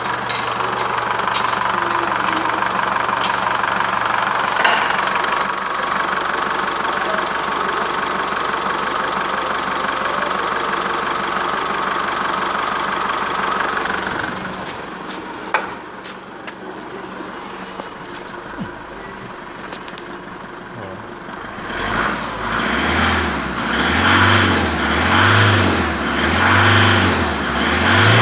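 Holden Colorado 3.0 L turbo-diesel engine running steadily, then dropping to a quieter idle about halfway through. In the last few seconds it is revved over and over in short blips, about one a second.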